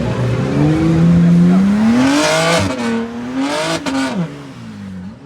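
Car engine revved while standing: the pitch climbs, then two loud blips of the throttle come about two and three and a half seconds in, each falling away, before the engine drops back toward idle.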